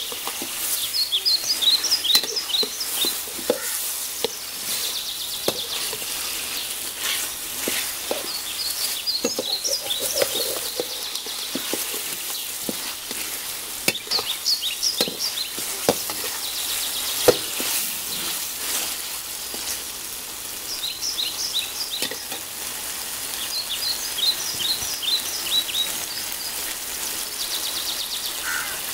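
Chicken curry sizzling in a metal kadai while a metal spatula stirs and scrapes through it, with scattered clicks of the spatula against the pan. A bird chirps in quick runs of high notes several times.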